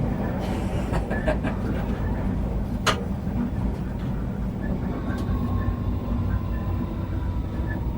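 Merseyrail Class 508 electric train running along the line, heard from the driver's cab: a steady low rumble. There is one sharp click about three seconds in, and a faint steady whine comes in about five seconds in.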